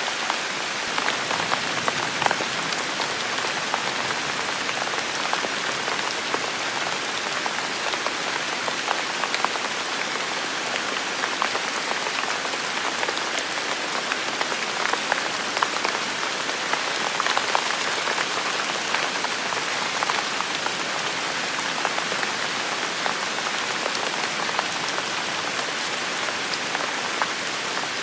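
Heavy rain falling steadily, many individual drops ticking sharply over an even hiss.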